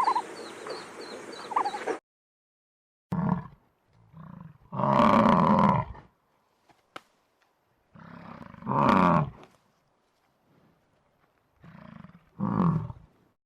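A large animal giving a series of roaring calls, about five of them with pauses between, the loudest lasting just over a second. In the first two seconds a different animal clip with high chirps cuts off abruptly.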